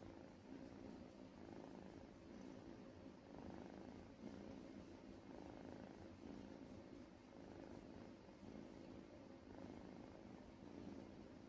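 A Scottish Fold cat purring softly and steadily, the purr swelling and easing every couple of seconds.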